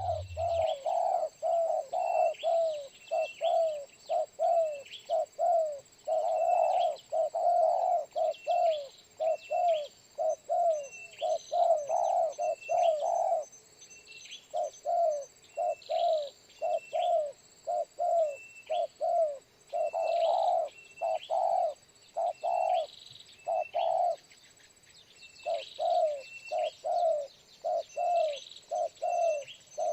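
Spotted doves cooing in rapid runs of short repeated notes, the call of a decoy dove used to lure wild doves, pausing briefly about halfway through and again later. Fainter high chirps sound above the cooing.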